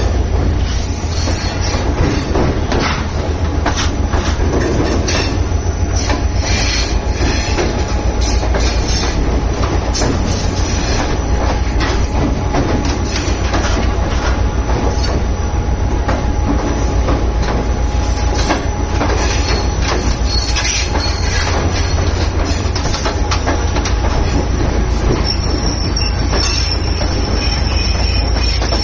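Shah Latif Express passenger train running along the track: a steady low rumble from the coaches with irregular clacks and knocks from the wheels, and a thin high wheel squeal near the end.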